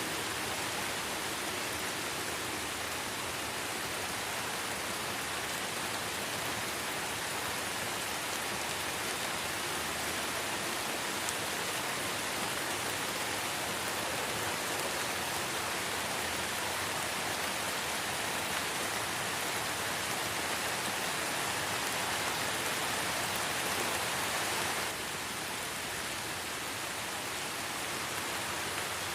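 Light rain falling steadily in a forest, an even hiss of many drops on leaves and ground. The hiss drops a little in level about 25 seconds in.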